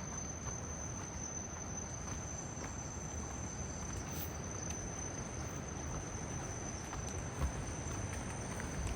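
Insects trilling in one steady, unbroken high tone, over a low even background hiss.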